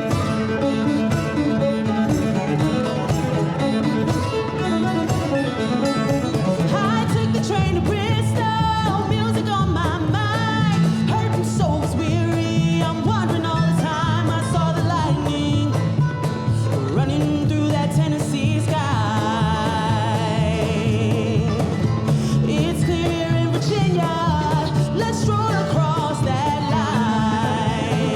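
Live string band playing an instrumental mixing bluegrass and classical styles, with cello, acoustic guitar and mandolin, and a wavering bowed melody line.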